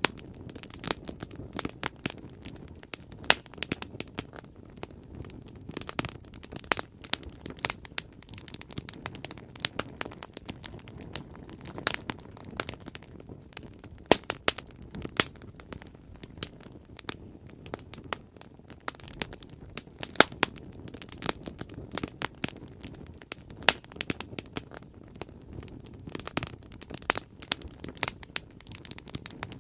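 Wood fire crackling steadily, with frequent irregular sharp pops and snaps over a low rushing rumble of the flames.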